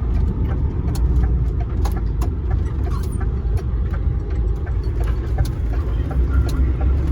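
DAF dump truck on the move: the diesel engine runs steadily under a low rumble of road noise, with many small clicks and knocks scattered through it.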